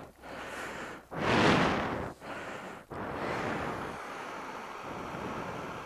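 Hairdryer blowing hot air, thawing a frozen motorcycle lock: a steady rushing of air that surges loudest about a second in, breaks off briefly a few times, then settles to an even rush.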